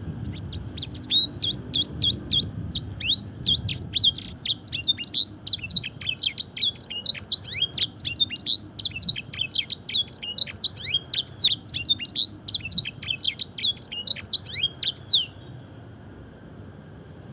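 A canary singing a long, fast song of sharp, high, downward-sliding notes in quick succession, the trained style with phrases copied from the blackthroat. The song starts about half a second in and stops abruptly near the end, leaving a faint low background rumble.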